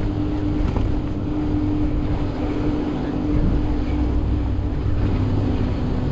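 Wind rushing over the microphone and bicycle tyres rolling on a wet path while riding at speed, with a steady low hum underneath.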